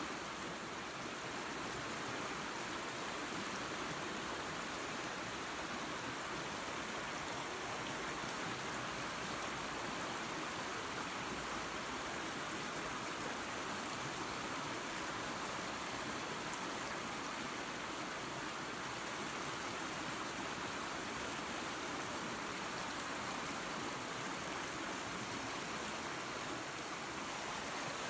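Small waterfall and creek running, a steady even rush of water.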